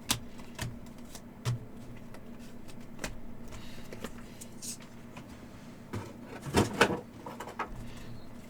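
Trading cards being handled and set down in stacks on a table: scattered light clicks and slaps, with the loudest flurry a little after six seconds in, over a faint steady low hum.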